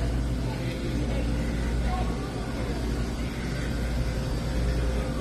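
Steady low rumble of indoor store background noise, with faint voices in the mix.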